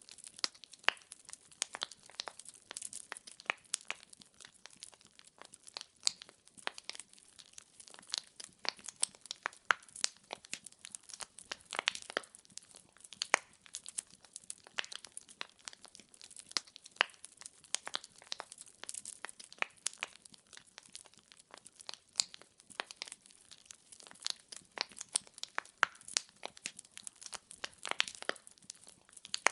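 Burning firewood crackling and popping steadily: many sharp, irregular snaps a second over a faint hiss, with a few louder pops among them.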